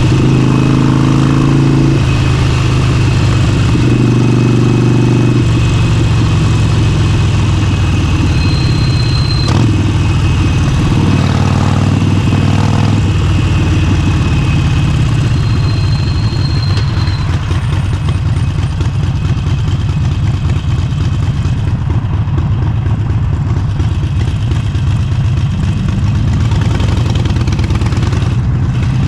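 Motorcycle engine running at low revs, near idle, with short rises in revs in the first few seconds and again about eleven seconds in.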